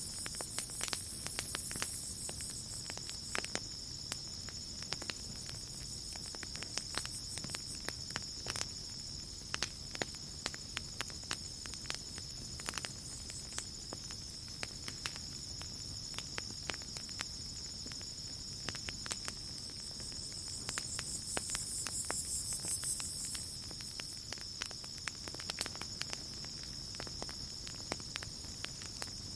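Campfire crackling with scattered sharp pops over a low, steady burn, under a constant high chirring of night insects. A higher insect trill swells in briefly twice, at the very start and about 21 seconds in.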